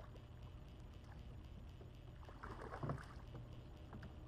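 Water lapping against the hull of a small fishing boat over a low wind rumble on the microphone, with a short cluster of splashes and knocks ending in a louder thump about three seconds in.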